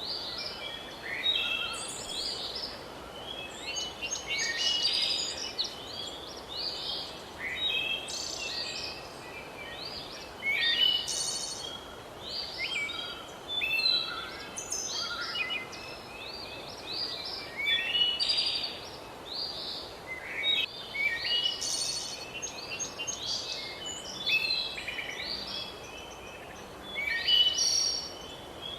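Many songbirds chirping and singing at once, their short overlapping calls and trills following one another without pause, over a steady background hiss.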